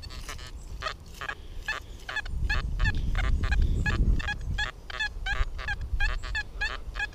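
XP Deus metal detector giving a rapid run of short beeps, about three a second, as the coil is swept back and forth over a target in ground full of iron. A low rumble rises under the beeps about two seconds in and fades about two seconds later.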